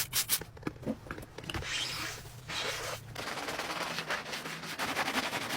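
Car wash equipment running: a steady low hum under scraping and rubbing, with a rapid clatter in the second half.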